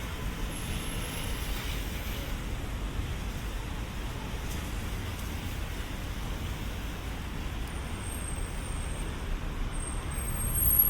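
Steady city street traffic with passing vehicles and a low engine rumble. It gets louder near the end.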